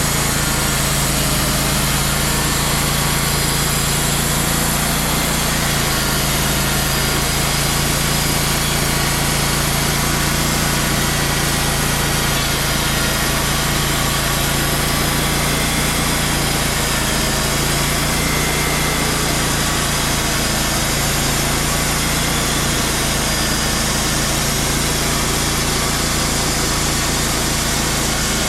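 Wood-Mizer portable band sawmill running steadily, its engine holding a constant speed.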